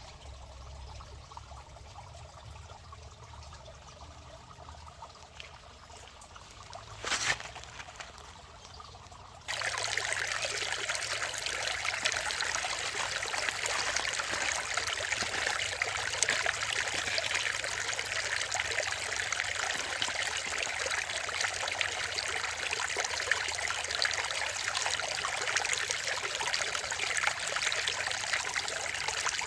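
Running water, a steady trickling stream that starts suddenly about a third of the way in. Before it there is a quieter stretch with one brief louder noise.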